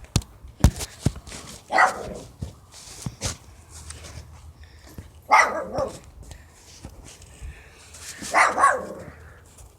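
Dog barking three times, a few seconds apart, with a few sharp knocks in between near the start.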